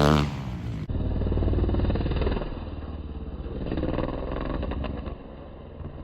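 Dirt bike engine revving and running at varying speed, its pitch rising and falling. About a second in the sound changes abruptly, becoming duller and quieter.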